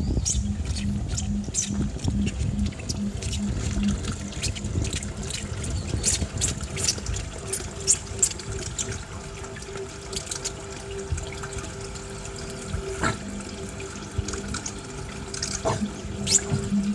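Running water with many short, high-pitched chirps scattered throughout, over a low tone that pulses for the first few seconds and again near the end.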